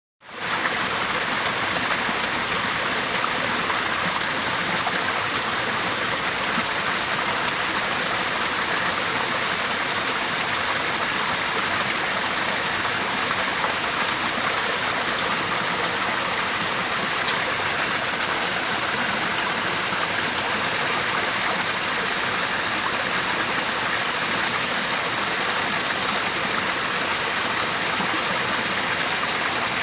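Waterfall: a steady, even rush of falling water, fading in quickly at the very start.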